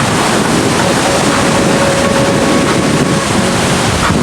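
Strong wind buffeting the microphone, a loud steady rush, with a faint steady tone held for a couple of seconds in the middle.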